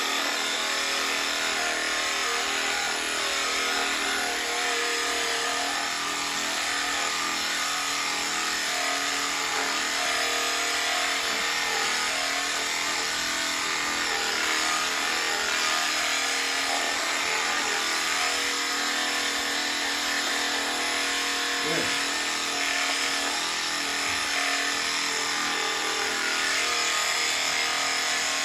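Electric sheep shears running steadily while shearing, a constant motor buzz that holds one pitch throughout.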